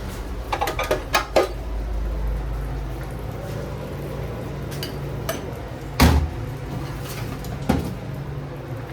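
Kitchen utensils and pans clattering and knocking: a quick run of clatters about a second in, then two separate knocks, the louder one about six seconds in. A steady low hum of kitchen equipment runs underneath.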